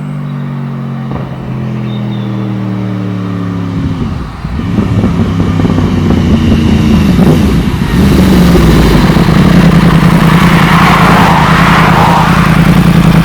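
Yamaha R1 crossplane inline-four engine running through an Akrapovic exhaust with a decat link pipe. Its note sags slightly over the first few seconds, then grows louder in two steps to a steady, loud note.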